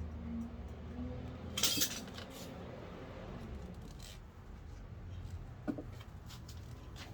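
Small metal brake parts and tools clinking and tapping as they are handled during a front brake pad change: a short cluster of sharp clinks about two seconds in, with single clinks later and near the end.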